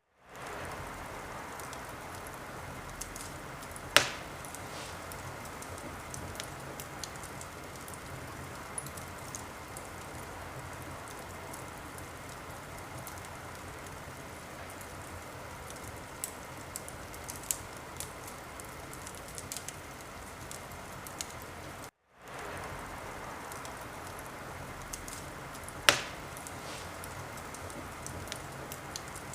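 Wood fire in a fireplace crackling, with a steady soft hiss and many small snaps, and two loud sharp pops, one about four seconds in and one near the end. The sound cuts out briefly twice and fades back in.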